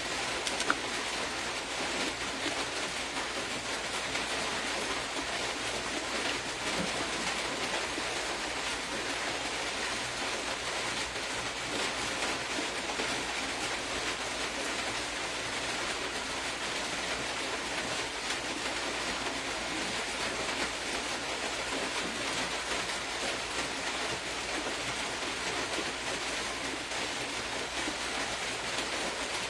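Steady, even background hiss, with one faint tick about a second in.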